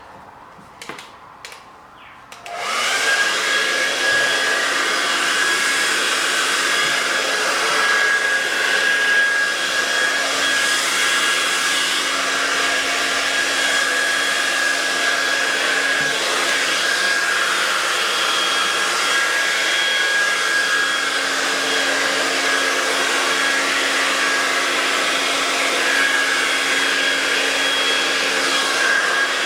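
A hair dryer switches on about two and a half seconds in, after a few light clicks, and then runs steadily: a rush of air with a steady whine over it.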